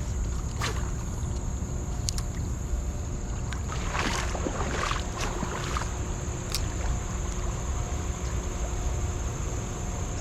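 Creek water splashing and sloshing, with a cluster of splashes about four to five seconds in, over a steady low rumble and a thin, steady high-pitched whine.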